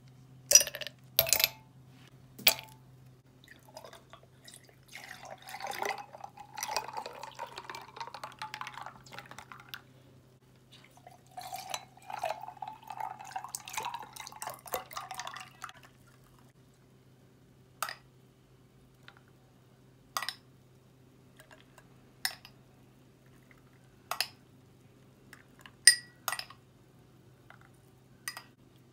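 Kitchen liquid sounds: a few clinks of glass, then liquid poured into a glass in two stretches of about five seconds each, followed by single light drips about every two seconds over a faint steady hum.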